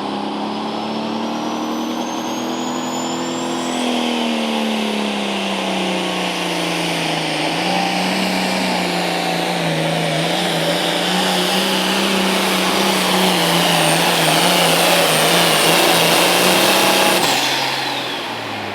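Turbocharged diesel pulling tractor at full throttle under heavy load down the track, with a high turbo whistle over the engine. The engine note sags as the load builds, then holds steady. Near the end it throttles off and the turbo whine winds down.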